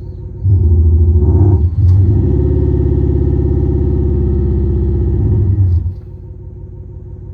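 Muffler speaker (THOR electronic exhaust sound system) on a Prius PHV playing a simulated engine exhaust note. It idles with a low rumble, is revved up about half a second in, dips briefly, then holds a steady rev until near six seconds and falls back to idle.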